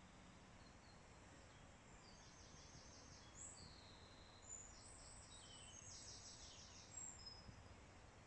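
Faint birdsong: a few short high chirps and several rapid high trills from about two seconds in, over quiet outdoor background hiss.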